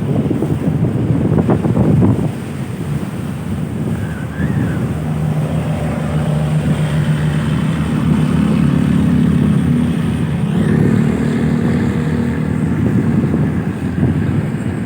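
Strong wind buffeting the microphone in gusts. From about five seconds in, an engine's steady low drone runs under the wind and fades near the end.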